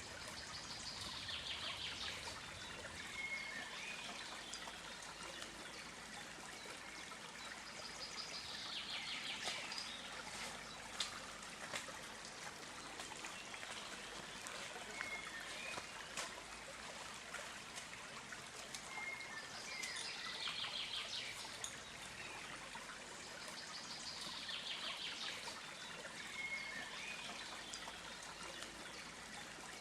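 Steady trickle and rush of a stream. A songbird sings a short trilled phrase four times, several seconds apart, with a few single notes in between.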